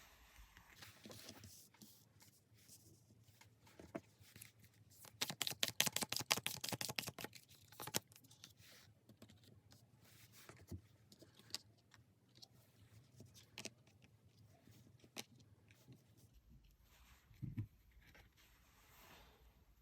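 Tarot cards being handled and shuffled: scattered soft taps and slides, with a quick run of rapid card flicks lasting about two seconds near the middle.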